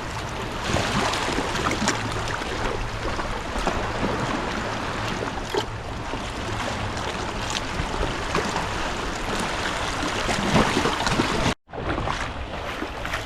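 Seawater washing against a rocky shore, a steady rush of surf mixed with wind on the microphone.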